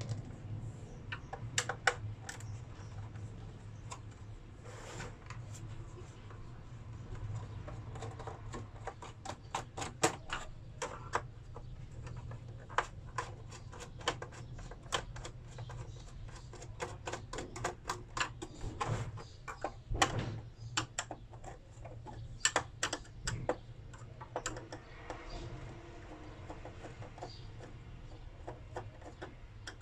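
Irregular sharp clicks and taps of small tools and metal and plastic parts being handled as an inverter is taken apart, some in quick runs, over a low steady hum.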